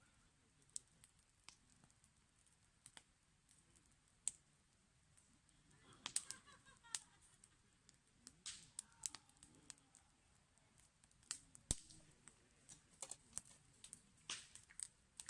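Burning firewood crackling: faint, scattered sharp pops and snaps at irregular intervals.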